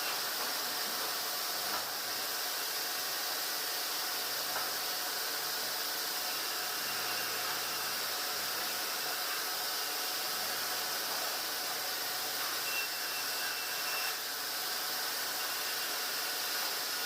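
Steady hissing machinery noise from a sawmill, with a faint whine and a few small clicks.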